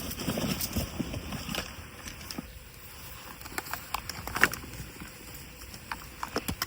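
Rustling and handling noises with scattered light clicks and taps.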